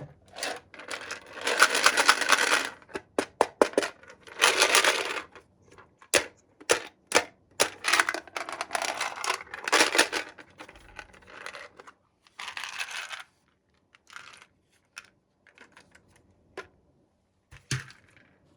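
Hands opening toy packaging: bursts of plastic crinkling and rustling mixed with sharp clicks and taps, coming in irregular spurts.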